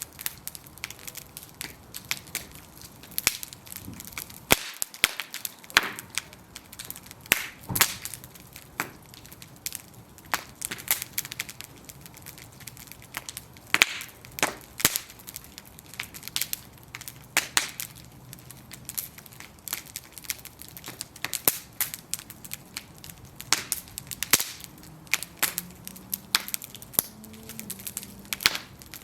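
Wooden planks burning in a bonfire, crackling with frequent sharp, irregular pops and snaps over a low steady hiss.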